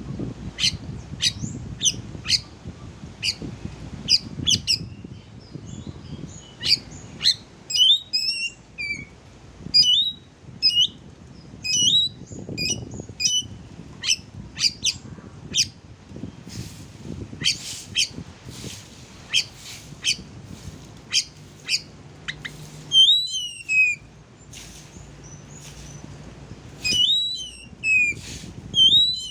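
Oriental magpie-robin song: a run of short chirps, sharp clicks and quick sweeping whistled notes, broken by brief pauses.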